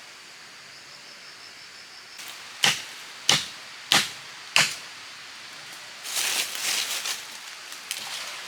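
Four sharp blows of a tool striking wood, evenly spaced about two-thirds of a second apart, followed about a second and a half later by a stretch of rustling.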